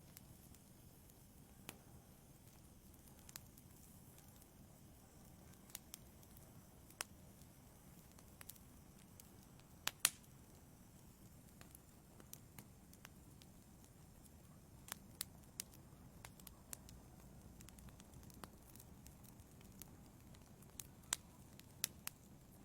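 Wood fire in a fireplace crackling, with sharp pops at irregular intervals over a faint low rumble; the loudest pop comes about ten seconds in.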